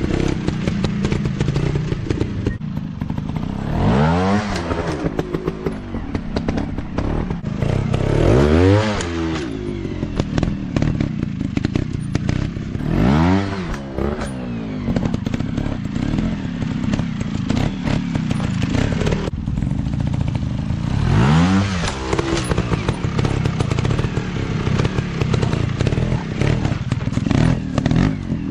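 Dirt bike engines running, with the throttle opened and closed about four times, each a quick rise and fall in pitch, over a steady engine rumble and scattered clatter.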